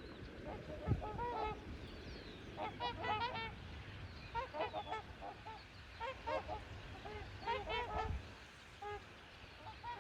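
A large flock of swans calling, many short honks overlapping in bursts every second or so.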